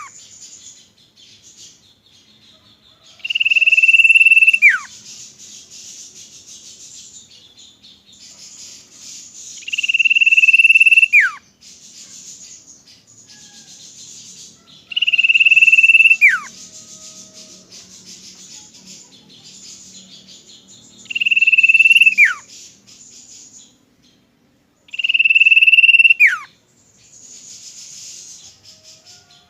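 Common iora (cipoh) singing: a long, steady, high whistled note that ends in a sharp downward slur, given five times about every five to six seconds. A continuous high insect-like hiss fills the gaps between the calls.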